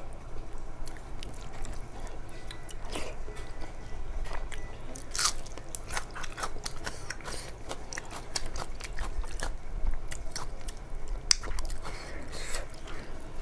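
A person chewing a mouthful of soft khichdi (rice and lentils) close to a clip-on microphone, with many small wet mouth clicks and lip smacks.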